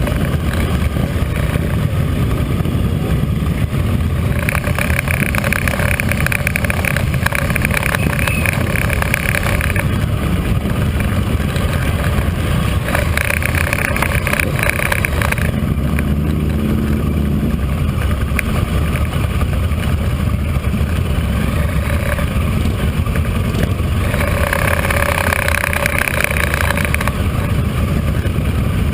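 Motorcycle engines running steadily with a constant low rumble. A higher-pitched sound rises and falls in stretches of a few seconds on top of it.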